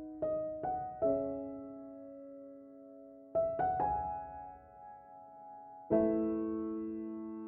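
Background music: slow, gentle piano notes and chords, each left to ring out and fade.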